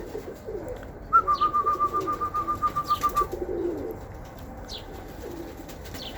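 Pigeons cooing low at the loft, with faint short chirps. About a second in, another bird gives a rapid run of identical high notes, some eight a second, for about two seconds.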